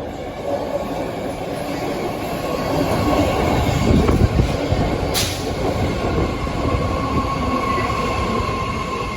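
BART Fleet of the Future train pulling into the station: wheels rumbling on the rails, loudest about four seconds in, a brief sharp noise about five seconds in, then a steady high whine as it slows.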